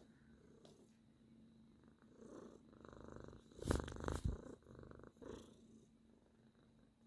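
Sacred Birman cat purring in several short stretches, starting about two seconds in, with two louder knocks in the middle.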